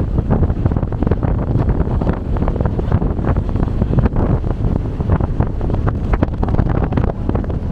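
Wind buffeting the microphone on a moving ferry, a loud gusty rumble that fluctuates throughout.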